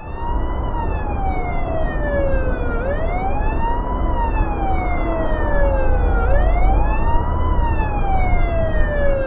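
Wailing siren, its pitch rising and then sliding slowly down, repeating about every three and a half seconds, over a steady low rumble.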